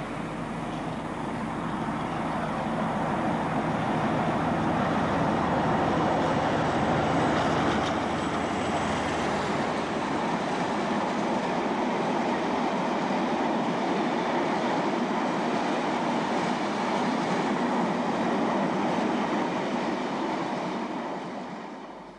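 Diesel locomotive hauling a freight train of bogie tank wagons past at close range. The engine sound builds and passes in the first nine seconds or so, then the tank wagons roll by with a steady rumble until the sound drops away abruptly at the end.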